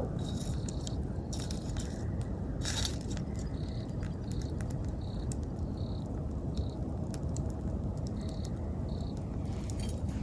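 Wood campfire burning with a steady low rumble and scattered crackles and pops, plus a few short hissing flare-ups. Over it an insect chirps in short, high, evenly spaced notes, about one every 0.7 seconds, in a few runs.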